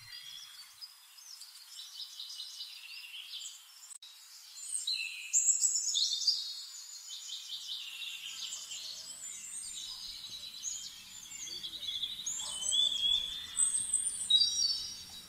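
Several small birds chirping and singing at once, overlapping quick trills and tweets, louder around five to six seconds in and again near the end.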